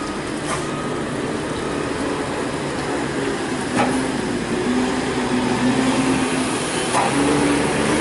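Heavily loaded coal truck's diesel engine labouring on a steep uphill climb: a steady drone whose pitch steps up and down, with a couple of short knocks.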